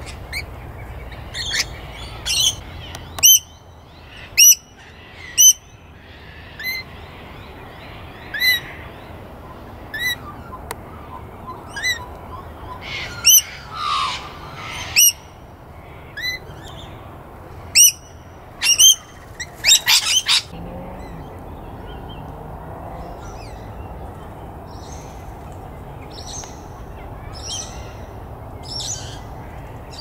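Birds calling: short, sharp, high-pitched calls about once a second for the first twenty seconds, closing with a harsh screech, then fainter, softer calls.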